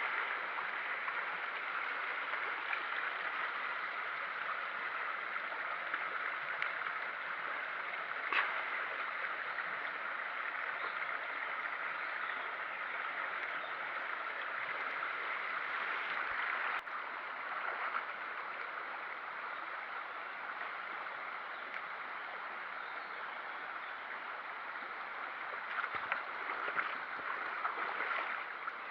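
Steady rush of flowing water, with a brief sharp click about 8 seconds in and another about 17 seconds in.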